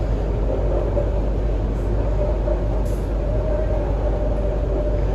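MTR C-train metro running between stations: a steady rumble of wheels on track with a steady hum held at one pitch.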